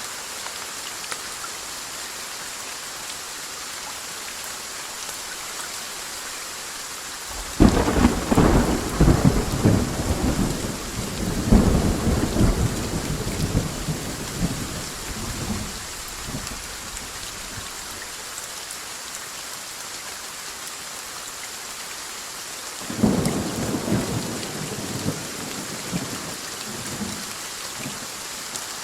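Steady rain falling, broken by two claps of thunder: a loud crack about a quarter of the way in that rolls and rumbles off over several seconds, and a weaker, shorter one past the three-quarter mark.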